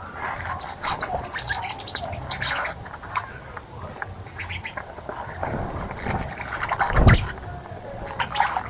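Small wild birds chirping in quick, short calls, with a louder low thump about seven seconds in.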